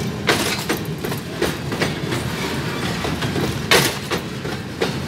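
NCA freight train's covered hopper cars rolling past at close range: a steady rolling rumble with irregular clacks of the wheels on the track, one sharper knock about four seconds in.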